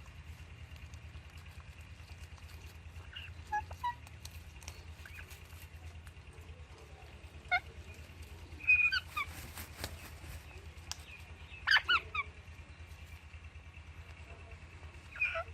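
Pet parrots (Alexandrine and Indian ringneck) giving short, sharp chirps and squawks every few seconds. The loudest come about 9 and 12 seconds in, over a steady low hum.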